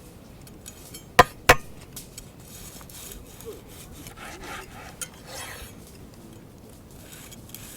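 Two sharp knocks in quick succession about a second in, followed by soft, scattered scraping and rubbing, like objects being handled on a wooden surface.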